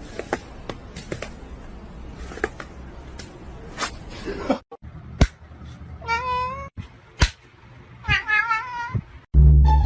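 A cat meowing twice in the second half, each call wavering in pitch, after a few seconds of scattered clicks and knocks.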